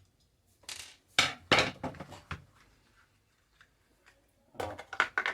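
Clattering and knocking of hard parts as a robot vacuum's battery pack is handled, in two bursts: one about a second in and another near the end.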